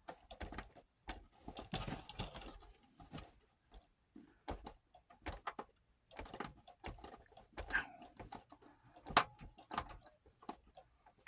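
A screwdriver working at stubborn screws in the housing of an 8mm film viewer: irregular small clicks, taps and short scrapes of metal on the screws and case.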